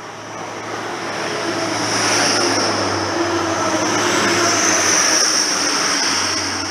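Class 180 diesel multiple unit passing at speed, close by: a rushing noise of engines and wheels that swells, stays loud for a few seconds as the coaches go by, then starts to fade as the train moves away.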